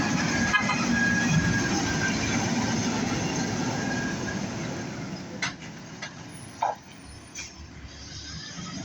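A heavy vehicle's engine rumbling steadily, then dying away about halfway through. A few short knocks follow near the end.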